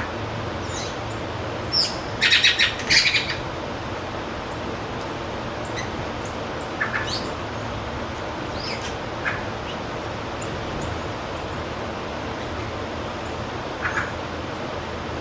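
Wild birds calling: a quick run of harsh chirps about two seconds in, then scattered single chirps, over a steady background hiss.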